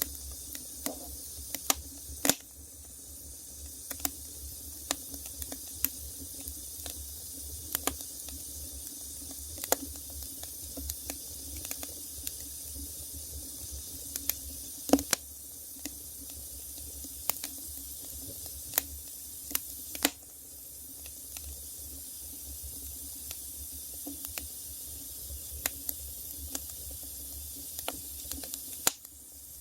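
Wood fire burning with a steady hiss and irregular sharp crackles and pops, a few louder snaps among them, over a low steady rumble.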